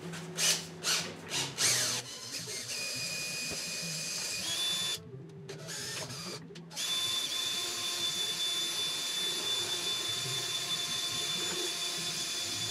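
A small electric power-tool motor running with a steady high whine, stopping twice briefly about five and six seconds in and starting again; a few sharp knocks come in the first two seconds.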